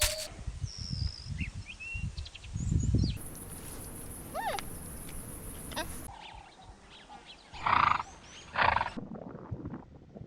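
Animal calls from several short clips, ending in two loud short calls near the end, with faint chirping birds early on.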